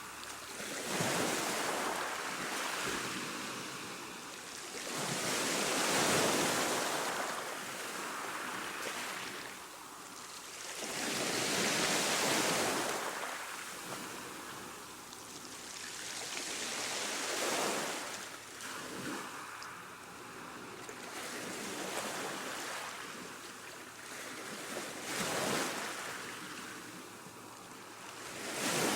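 Ocean waves breaking, a rushing hiss that swells and fades as each wave comes in, about every five to six seconds.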